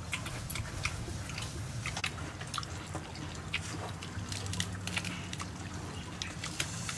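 Close-up eating sounds: mouth chewing with many small wet clicks and crackles, and crisp lettuce leaves being handled. A steady low hum runs underneath.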